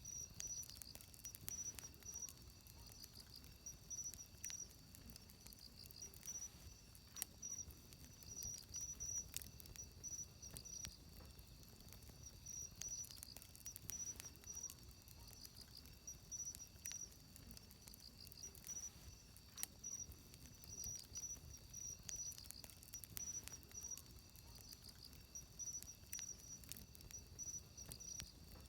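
Wood campfire crackling with irregular sharp pops and snaps, over insects chirping steadily in a high, pulsing trill.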